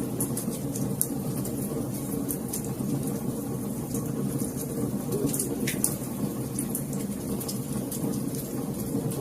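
Wood fire crackling in a fireplace: a steady low rush of flame with irregular sharp pops and snaps scattered throughout.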